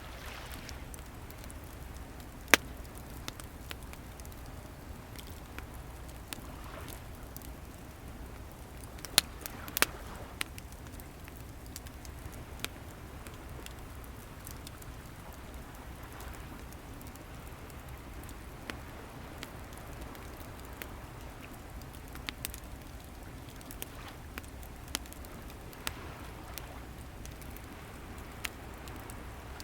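Wood bonfire crackling, with scattered sharp pops, the loudest about 2.5 s and 9 to 10 s in, over a steady low rumble of ocean waves that swells now and then.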